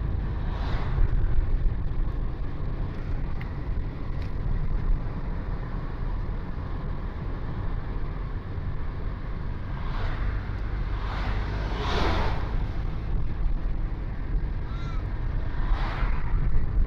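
Steady low rumble of road and wind noise from a moving vehicle, with other vehicles swelling past about a second in, twice around ten to twelve seconds, and once more near the end.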